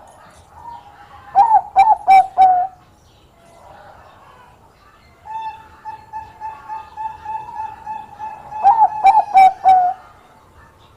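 Zebra dove (perkutut, Bangkok type) cooing in two song phrases. First comes a burst of four or five loud, clipped coos about a second and a half in. Then a long run of soft, quick notes builds into another burst of loud, clipped coos near the end.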